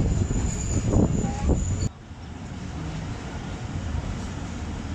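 Passenger train noise at a station stop: a loud rumble with a high steady whine cuts off abruptly about two seconds in, giving way to a quieter steady rumble.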